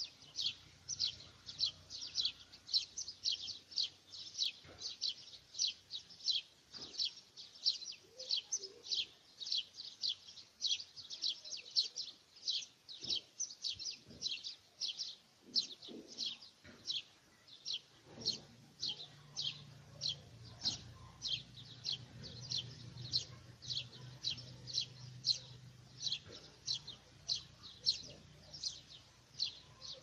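A bird calling with short high chirps repeated in a steady rhythm, about two a second, over a faint low hum.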